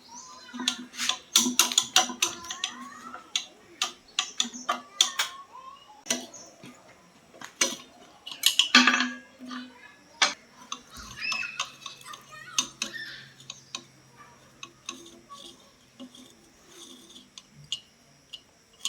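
Metal tools and parts clinking and knocking in an irregular run of sharp clicks, as pump parts are handled during repair. A faint low hum sets in about halfway through.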